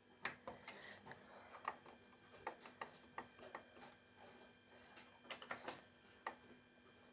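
Scattered light clicks and taps, irregular, over quiet room tone.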